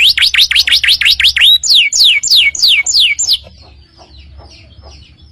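Canary singing: a fast trill of rising sweeping notes, then a slower run of falling whistled notes, about three a second. The song stops abruptly a little over three seconds in, leaving only faint chirps.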